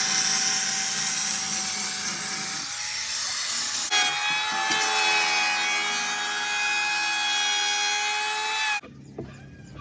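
A power tool running with a steady high whine and a loud hiss. The sound changes abruptly about four seconds in, and it drops much quieter near the end.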